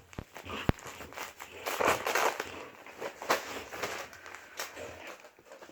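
Crinkly gift wrapping being rustled and torn in irregular crackly bursts, loudest about two seconds in, with a sharp crackle just after three seconds.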